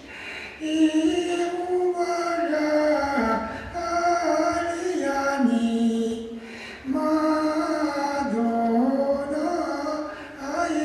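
Singing: a melody in long held notes that step up and down, in phrases broken by a short pause about six seconds in.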